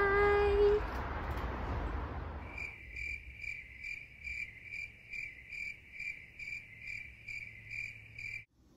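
A woman's drawn-out 'bye' held on one pitch for about the first second. Then, from about three seconds in, crickets chirp in an even high-pitched pulse about two and a half times a second, cutting off suddenly near the end.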